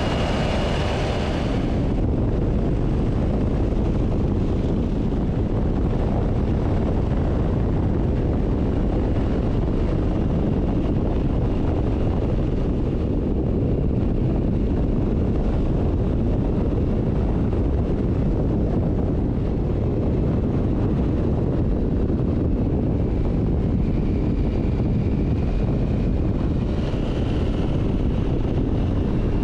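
Steady rush of wind on the microphone from a motorcycle riding at speed, with a faint whine near the start and again near the end.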